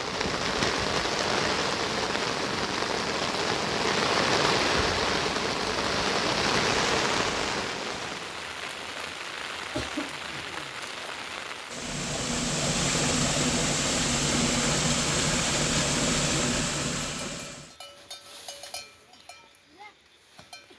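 Heavy rain pouring steadily. It changes abruptly to a different, heavier-sounding downpour partway through, then drops to a much quieter stretch of scattered drips and ticks near the end.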